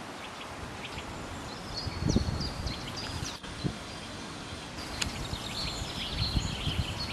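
Small birds chirping and twittering in spring, with low gusts of wind buffeting the microphone about two seconds in and again near the end.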